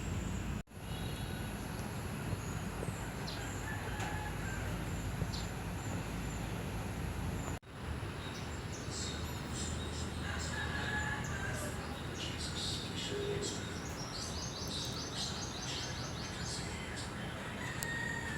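Birds calling, with short chirps and a fast trill in the second half, over a steady low hum; the sound cuts out abruptly twice.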